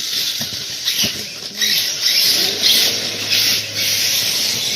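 Radio-controlled short course trucks running: motors rising and falling in pitch under a hissy noise that surges several times.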